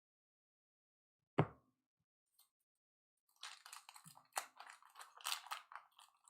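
Faint handling of trading cards: a single light knock, then a couple of seconds of crisp, crinkly rustling, like cards sliding against each other and into plastic sleeves.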